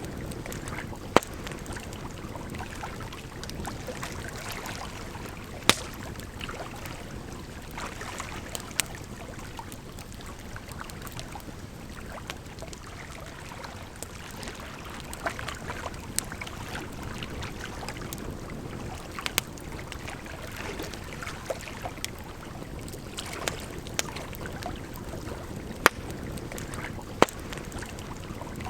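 Campfire crackling, with sharp pops at irregular moments every few seconds, over a steady rush of flowing water.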